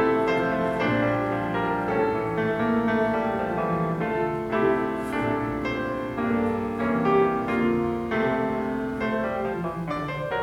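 Instrumental piano music, with many held notes struck one after another.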